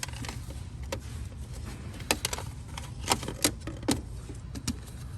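Chevrolet Cruze engine idling with a steady low hum, with a handful of sharp clicks and knocks, mostly between about two and four seconds in.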